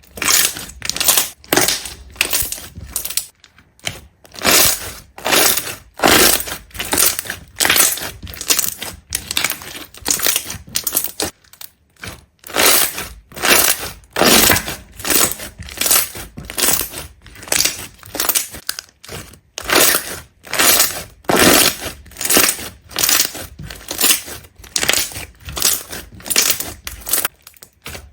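Something brittle being crushed in a steady run of short, crisp crunches, roughly two a second.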